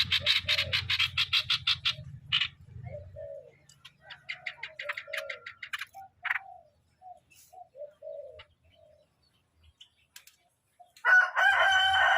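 Streak-eared bulbul calling: rapid chattering rattles twice, with scattered short lower notes between them. A rooster crows loudly near the end.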